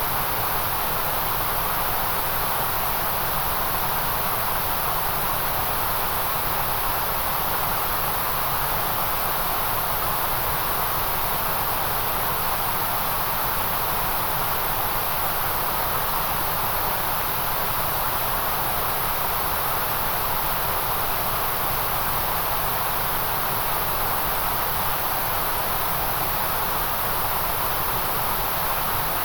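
Steady, unchanging white noise: an even hiss with no rhythm or events, somewhat brighter in the upper range.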